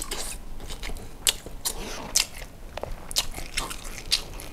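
Close-miked eating: a mouthful of rice with sausage and chili sambal being chewed, with a run of sharp, irregular wet smacks and clicks of the lips and mouth.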